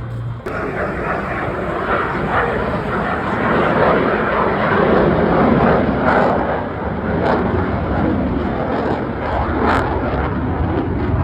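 Airplane engine noise as an aircraft flies past, swelling to its loudest about five seconds in and then easing off slightly.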